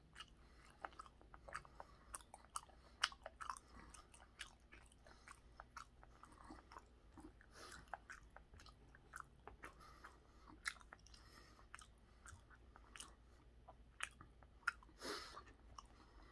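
Faint close-up chewing of raw tuna sashimi, with many small sharp mouth clicks and smacks. A brief hiss of noise comes near the end.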